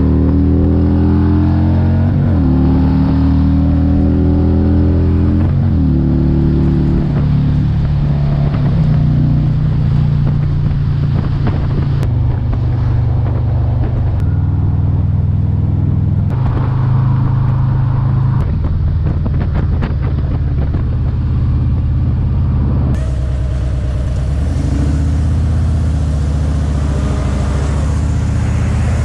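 Harley-Davidson Road Glide's Milwaukee-Eight 117 V-twin engine under way, pulling up through the gears with the pitch climbing and dropping at each upshift in the first six seconds or so, then running steadily at cruising speed.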